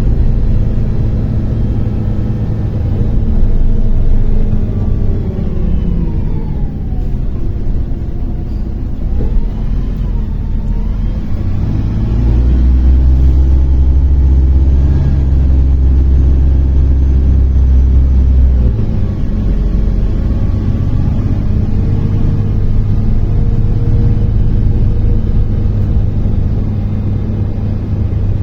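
MAZ-103 city bus heard from inside the passenger cabin while driving: steady engine and drivetrain rumble with a whine that glides down and back up in pitch, and a heavier low engine rumble for several seconds in the middle as it pulls.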